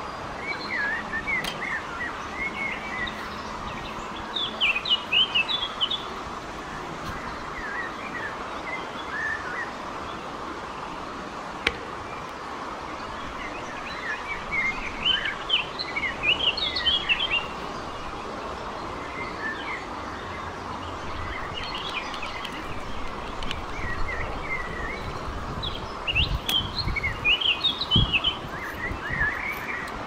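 Small songbirds chirping in recurring bursts of quick, high notes over a steady outdoor background hiss, with a single sharp click about twelve seconds in.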